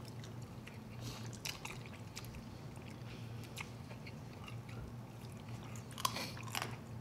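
Two people chewing and biting into sauced chicken wings, with short sharp mouth clicks scattered through and the densest run of them about six seconds in. A steady low hum lies underneath.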